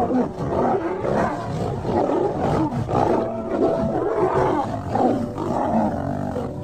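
Lions roaring, a rough, irregular run of overlapping calls.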